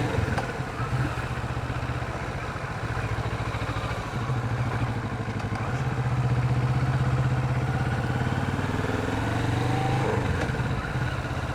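Kawasaki Vulcan 650's parallel-twin engine running as the motorcycle rides at low city speed. The note picks up about five seconds in and rises in pitch near the end as the bike accelerates.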